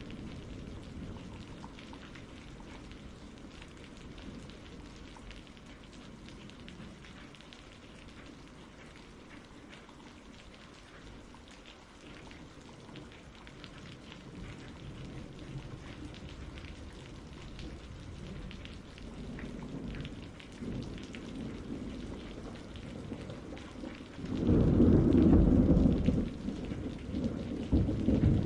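Thunderstorm ambience: steady rain with rolling thunder. The rumble builds gradually and is loudest about three-quarters of the way in, with another swell near the end.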